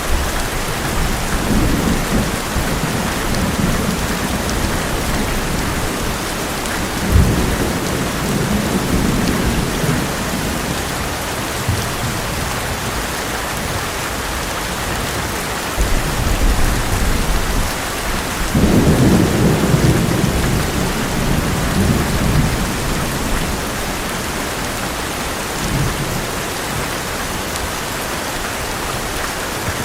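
Heavy rain drumming steadily on an old metal roof, with thunder rumbling several times over it. One sharp crack comes about seven seconds in, and the longest, loudest rumble rolls from about two-thirds of the way through.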